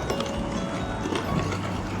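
Footsteps clicking on a hard station floor amid general station bustle.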